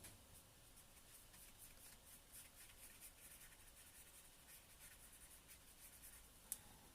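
Faint, quick scratchy strokes of a small Daler-Rowney System 3 filbert brush dabbing and dragging acrylic paint across canvas-textured acrylic paper, with one sharp click about six and a half seconds in.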